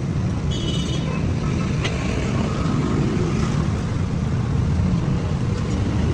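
Steady low rumble, with a short high-pitched tone about half a second in and a sharp click near two seconds.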